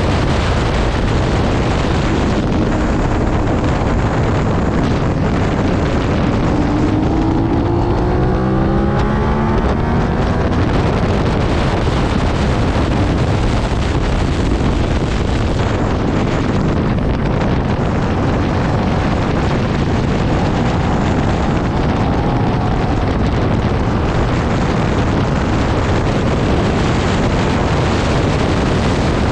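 Suzuki SV650's 645 cc V-twin engine running hard at speed, heavily masked by wind rushing over the microphone. About seven seconds in, the engine note rises in pitch for a few seconds.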